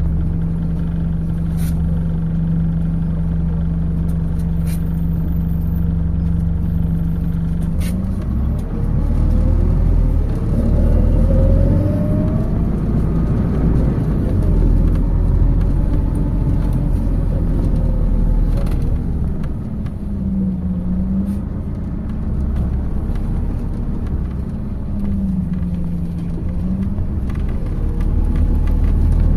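Interior of a MAZ 206 city bus: the engine runs at a steady idle, then the bus pulls away about eight seconds in, with a rising whine and heavier road rumble. Twice later the engine pitch dips briefly and recovers.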